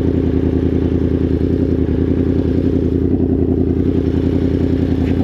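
Yamaha R1's inline-four engine running steadily, its pitch holding constant with no revving.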